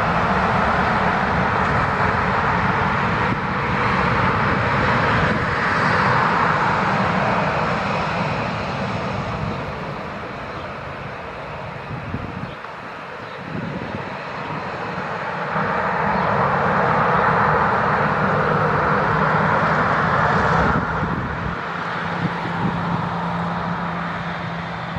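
Boeing 737-800 airliner's CFM56 jet engines running as the aircraft taxis after landing. The engine noise swells and eases twice, dipping about halfway through.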